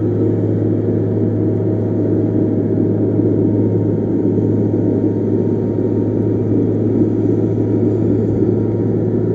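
Heavy diesel engine of earthmoving equipment running steadily, with a deep constant hum.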